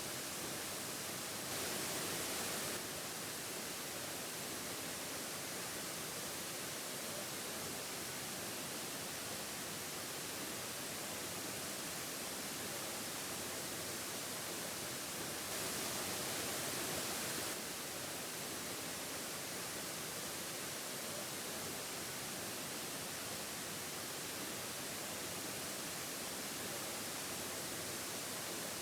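Steady rush of a waterfall, an even hiss of falling water. The level steps up briefly twice, about 2 s in and about 16 s in.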